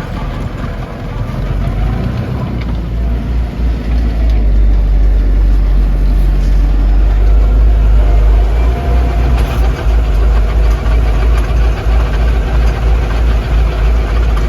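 Lovol 504 tractor's diesel engine running steadily, growing louder over the first few seconds and then holding.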